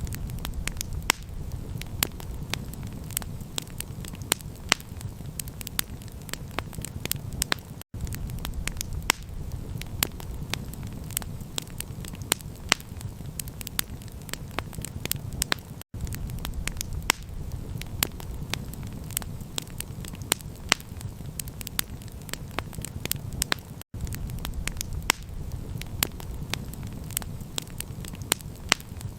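Campfire crackling: a dense run of sharp pops and snaps over a low, steady rumble. The sound cuts out for a split second about every eight seconds where a short recording loops.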